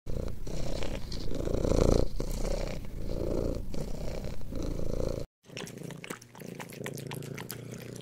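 A domestic cat purring loudly in steady, rhythmic pulses. It cuts off abruptly about five seconds in, and a quieter purr with light clicks follows.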